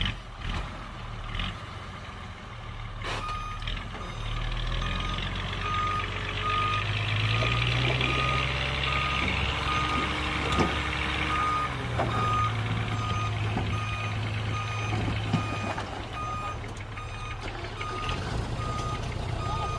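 A heavy vehicle's reversing alarm beeps in a steady single-tone rhythm, starting a few seconds in, over a large diesel engine working under load. The engine's pitch rises through the middle and eases off later.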